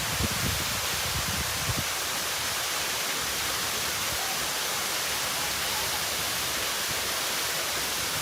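Steady rush of falling water from the Platanistou waterfall, an even hiss with no rhythm. In the first couple of seconds, low gusts of wind buffet the microphone.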